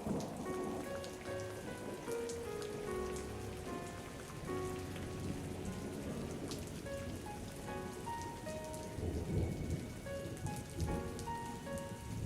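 Steady rain falling, with scattered drops pattering, under a soft instrumental melody of short held notes. A low rumble of thunder swells about nine seconds in.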